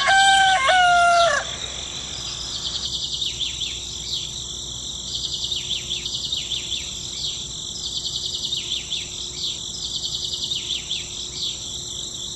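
A rooster crows, its call ending in a long held note about a second in. Small birds then chirp over and over above a steady high-pitched drone.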